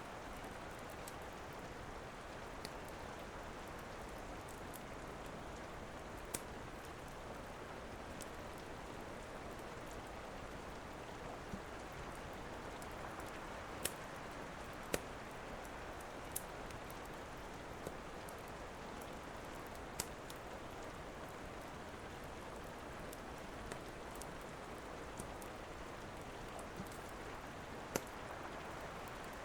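Steady rain with a wood fire crackling over it: a dozen or so sharp, irregularly spaced pops.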